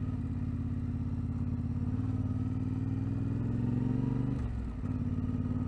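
Vehicle engine running steadily on a rough track, its pitch rising slightly, then dipping briefly about four and a half seconds in as the throttle eases before it picks up again.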